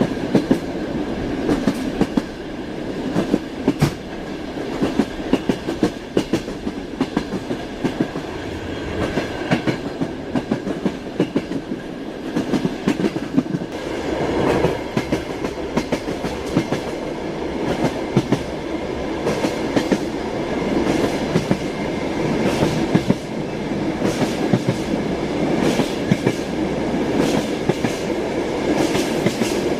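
Train wheels clattering over the rails: a steady rumble with frequent clicks and knocks, at an uneven rhythm, and a faint steady tone above it.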